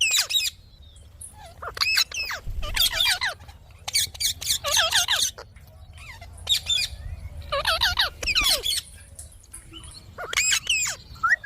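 Indian ringneck parrot vocalizing in short bursts of quick, warbling, pitch-bending notes, a string of them about every second with brief pauses between.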